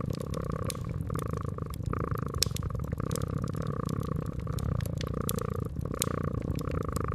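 Cat purring steadily, rising and falling with each breath, over the irregular crackle and pops of a wood fire.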